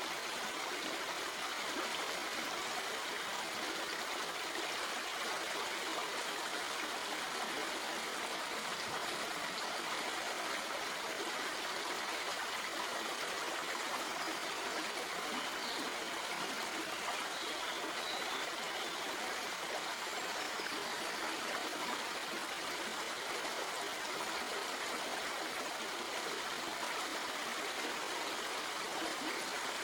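Shallow stream flowing over rocks, a steady, even rush of water with fine trickling and no breaks.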